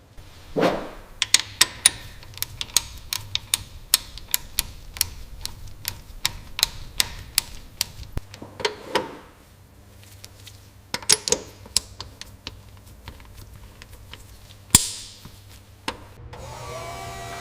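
A quick, irregular run of sharp clicks and taps, a few a second, that stops for a couple of seconds and comes back, with one louder knock near the end.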